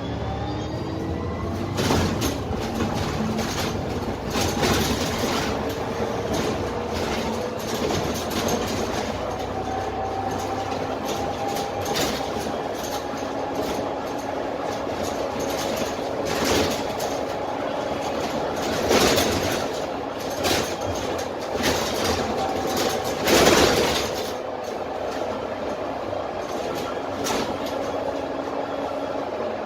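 Dennis Trident double-decker bus under way, heard from the lower deck: its Cummins ISMe six-cylinder diesel and Voith automatic driveline pick up speed, the whine rising in pitch over the first seconds, then running at a steady pitch. The bus body rattles and jolts now and then over bumps, hardest a little over three-quarters of the way through.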